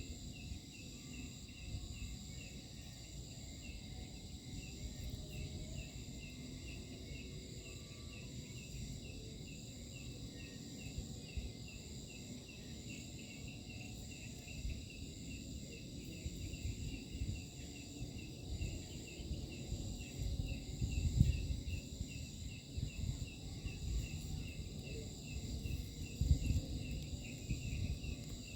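Night insects chirping in a steady chorus with an even, rapid pulse, over a low rumbling noise that swells briefly about two-thirds of the way in and again near the end.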